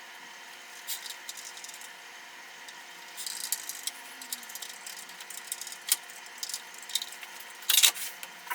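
Small metal hardware and hand tools clicking and rattling as a table saw crosscut sled is assembled, with a short scraping rustle about three seconds in and a sharper knock near the end.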